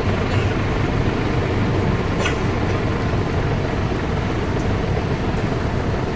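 Tractor engines running with a steady low rumble, and one brief click about two seconds in.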